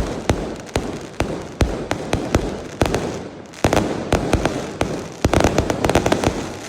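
Fireworks going off: a rapid, irregular string of sharp bangs, several a second, with a dense volley of quick bangs a little past the five-second mark, trailing off near the end.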